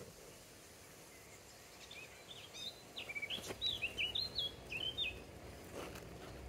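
A songbird singing one quick phrase of sharp, jumping chirps, starting about two seconds in and lasting about three seconds, over a faint steady outdoor hiss.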